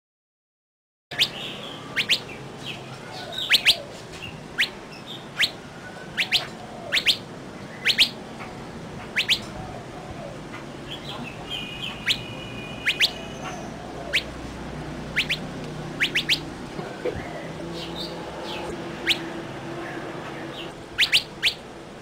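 Small birds chirping: short, sharp chirps, one or two a second, scattered irregularly over a soft background hiss, with a brief steady whistled note about twelve seconds in. The sound starts only after about a second of silence.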